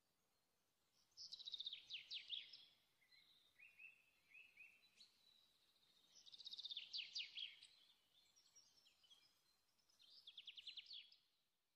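A songbird singing faintly: three similar phrases of rapid, high, falling notes, about four to five seconds apart, with a few short chirps between them.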